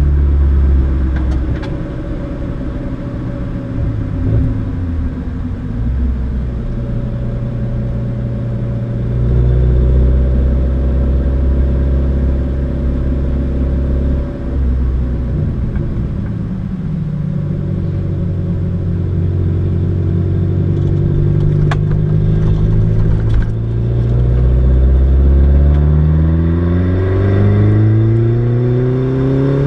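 Mini John Cooper Works R56's turbocharged four-cylinder engine, heard from inside the cabin, pulling at changing revs with a few pitch steps between steady stretches. In the last few seconds it accelerates hard, the engine note rising steadily.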